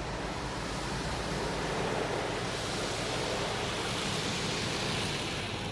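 High-pressure water jets of a touchless car wash spraying over a car, a steady rushing hiss that gets brighter a couple of seconds in.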